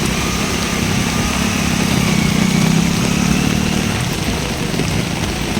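A motor vehicle's engine running close by over a steady hiss of outdoor noise. It grows louder toward the middle and fades after about four seconds.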